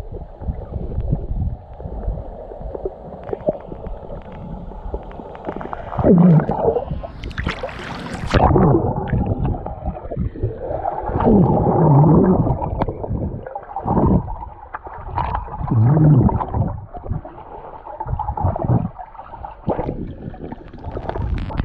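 Muffled gurgling of pool water heard through a camera held underwater, swelling and fading unevenly. There is a brief sharp rush of noise about seven seconds in.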